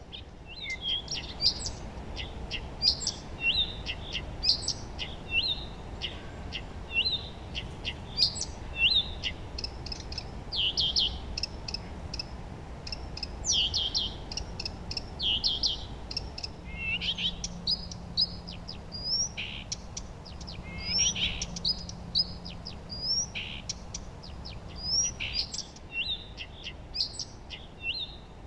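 Several songbirds singing and chirping, with short phrases overlapping one another, over a faint steady low rumble.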